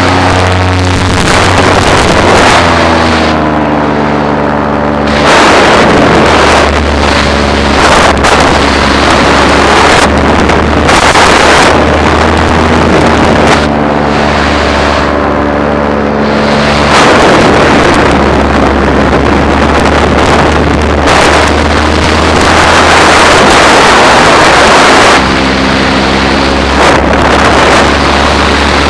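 Paramotor engine and propeller running steadily in flight, loud and close. Wind rushes over the microphone in repeated gusts that partly drown the engine.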